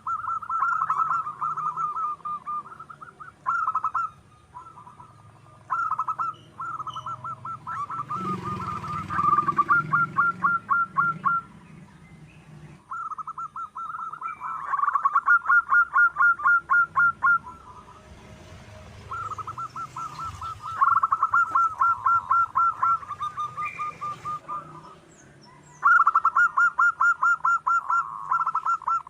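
Zebra doves (perkutut) giving their rapid staccato cooing song, in repeated bouts of a few seconds each with short pauses between. Faint high chirps sound above them.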